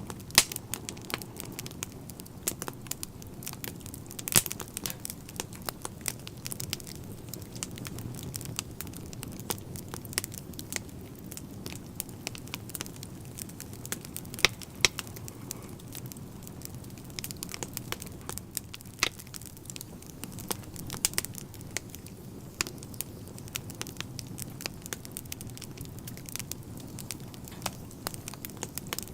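Fire burning in a stove, crackling with irregular sharp pops, a few of them much louder, over a low steady rush.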